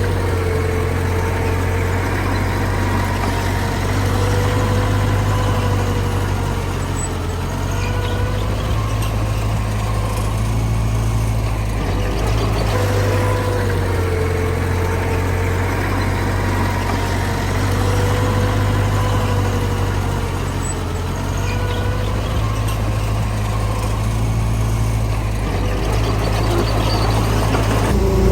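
Heavy diesel earthmoving machinery engine running steadily, with a faint whine that rises and falls slowly every few seconds.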